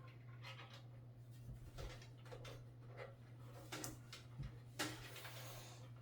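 Faint scattered clicks and rustles of PC cables and small connectors being handled during front-panel wiring, over a steady low hum.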